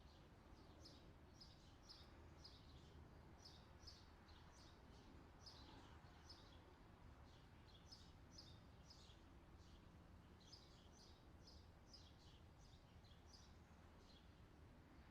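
Faint outdoor summer ambience: a bird chirping over and over, short high chirps about twice a second, over a steady low background hum.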